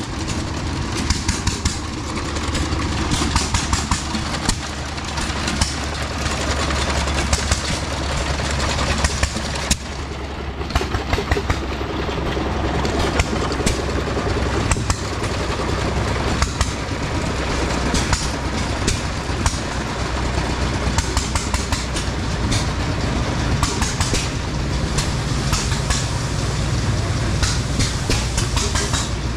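A small train running at a show, with a steady low engine hum under constant clicking and rattling from its wheels and cars.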